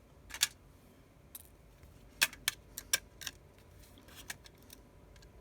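Small hand tools clicking and tapping against the metal parts inside an iPhone 6s while its tiny screws are taken out: a scatter of short, sharp clicks, several close together in the middle.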